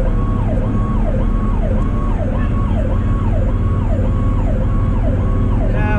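Fire truck siren in a fast yelp, its pitch sweeping up and down a little under twice a second, over the steady low rumble of the truck's engine and road noise.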